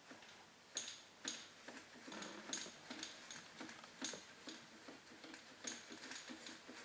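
Faint, irregular light clicks and metallic taps, about two or three a second, some with a thin high ring, as tools and metal parts are handled and adjusted.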